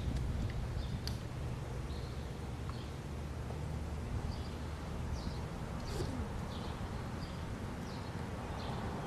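Birds chirping over a steady low rumble, with a few faint sharp clicks as muskets are being reloaded.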